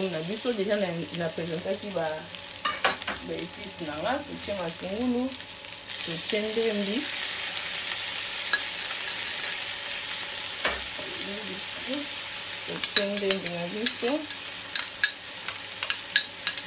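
Chopped onions sizzling as they fry in hot oil in a non-stick frying pan, the hiss growing fuller partway through as more chopped greens go in. Near the end, a spoon stirs the pan with light clicks and scrapes.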